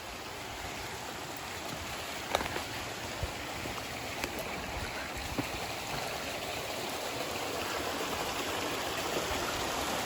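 Small hillside waterfall cascading and splashing, a steady rush of water that grows slightly louder, with a few short sharp ticks about two, three and five seconds in.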